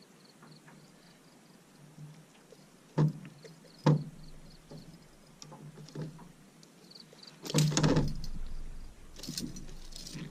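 Knocks and handling noise aboard a small fishing boat: two sharp knocks, a few lighter taps, then a longer noisy clatter about seven and a half seconds in, over a faint repeated high chirping.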